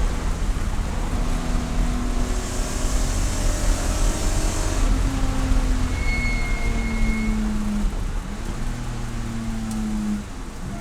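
Race car engine running at speed, its pitch climbing and then dropping in steps as the gears change. It eases off a little about eight seconds in.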